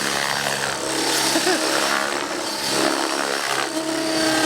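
Radio-controlled model helicopter flying aerobatics low over the ground, its motor and rotor running with a steady buzz that rises and falls a little in pitch.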